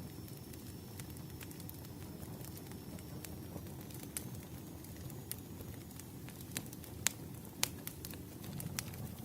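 Firewood burning: a steady low rush of flames with irregular sharp crackles and pops, two louder pops in the last third.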